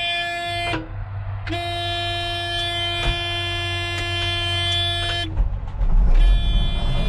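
John Deere 9500 combine's cab warning alarm sounding a long, steady high tone that breaks off briefly about a second in and again near the end, over the idling engine. The alarm warns that hydraulic pressure has not yet built up after start-up.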